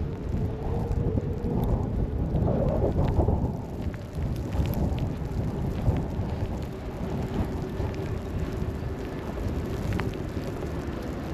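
Low rumble of city street traffic, with a steady engine hum that fades out early and comes back in the second half.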